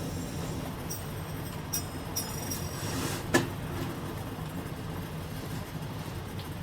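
Typhoon wind and rain buffeting a kei-truck camper, heard from inside as a steady low rumble. Light rattles come around the second second, and one sharp knock comes about three and a half seconds in.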